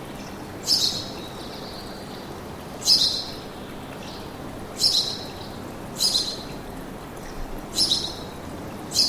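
A bird giving six short, sharp high-pitched calls, each falling away quickly, spaced about one to two seconds apart, over a steady low rushing noise.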